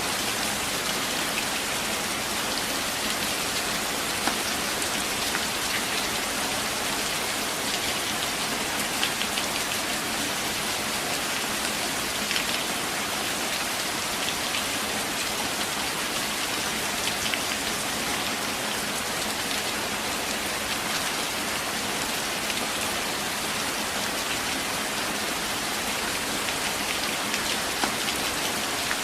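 Steady rain falling through forest trees, an even hiss with scattered louder drops ticking now and then.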